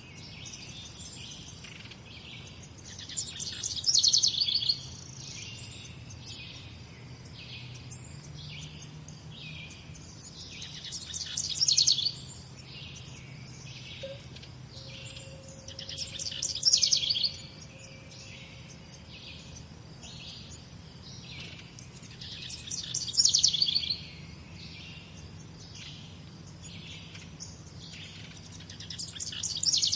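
Morning birdsong: one bird repeats a loud, rapid song phrase about every six to seven seconds, each phrase growing louder and then stopping abruptly, while other birds chirp softly in between.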